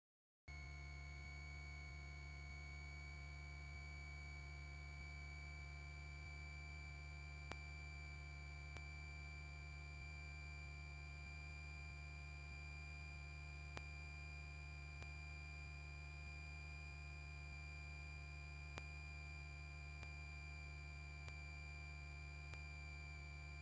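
Faint, steady high-pitched electrical whine with a low drone beneath it on the Cessna 172's intercom audio feed. It starts abruptly after a moment of dead silence and holds one unchanging pitch, with a few faint clicks.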